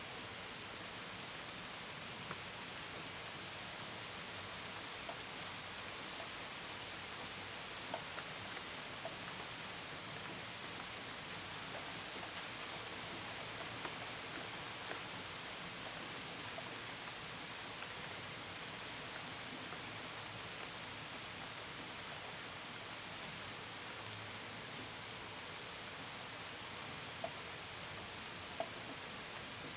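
Steady gentle rain hiss with scattered drops tapping sharply now and then, the loudest taps near the end. Crickets chirp in a high, pulsing chorus throughout.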